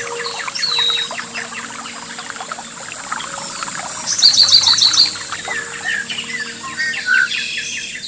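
Several wild birds singing and chirping together in overlapping short calls. About four seconds in, a fast trill of about seven high notes is the loudest part.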